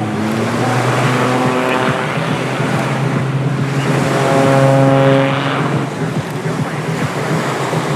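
CAP 231 aerobatic plane's piston engine and propeller droning steadily. The pitched drone swells about four seconds in and eases off near six seconds.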